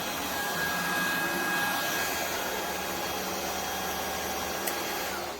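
Shark IX141 cordless stick vacuum running steadily, a motor whine over a steady rush of air, with one brief tick about four and a half seconds in. It winds down at the very end as it is switched off.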